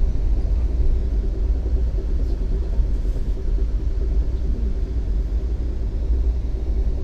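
Passenger train running at speed, heard from inside the carriage: a steady low rumble with a faint steady hum above it.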